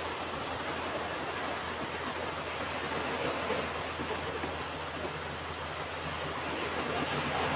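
Ocean surf washing onto a beach: a steady, even rush of breaking waves with no single crash standing out.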